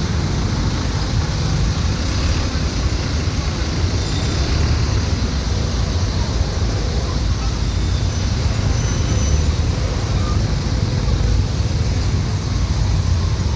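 Busy city street traffic: motorbikes, cars and tuk-tuks running by in a steady, continuous low rumble.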